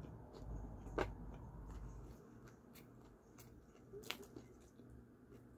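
A person chewing food close to the microphone, with two sharp clicks about three seconds apart.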